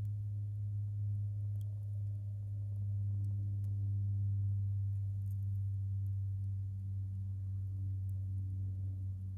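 A steady, unchanging low hum with a couple of fainter overtones above it, with a few faint, scattered crackles from the burning firewood.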